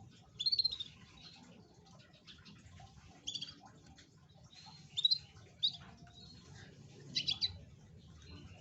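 Domestic canary giving short, high chirps in separate bursts a second or two apart, some as quick runs of three or four notes.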